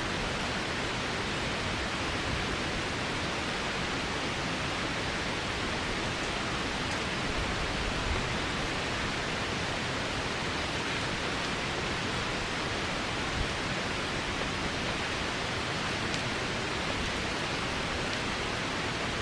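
Heavy rain falling steadily: a dense, even hiss with a few faint ticks.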